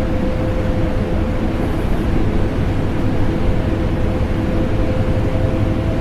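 Vacuum cleaner and air conditioner running together as continuous white noise: a steady drone with a low hum and a constant mid-pitched tone, unchanging throughout.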